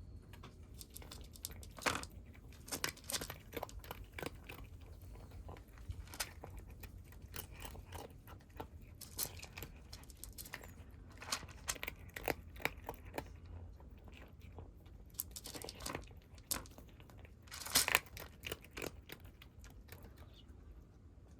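Kittens chewing and crunching dry cat food: many small, irregular crunches, with a louder cluster near the end.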